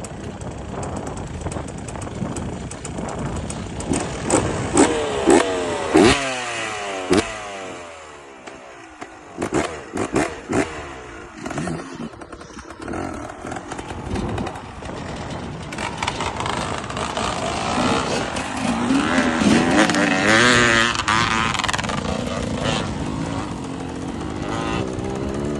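Off-road enduro motorcycle engines revving up and down repeatedly, with sharp knocks and clatter in the first half. The engine sound grows louder again in the second half.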